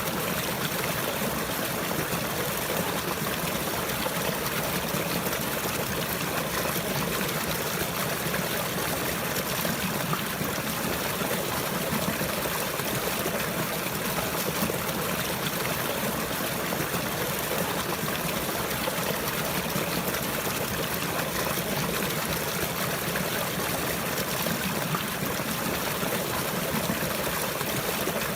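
Running water flowing and trickling in a steady, unbroken wash.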